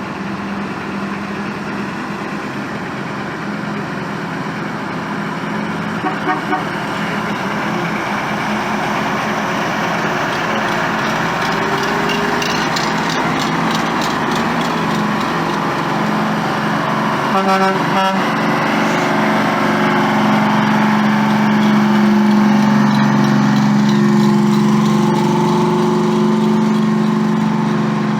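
Heavy trucks running, one engine's hum growing louder as it comes closer, with short horn toots: a quick set of three about six seconds in and another burst around seventeen seconds in.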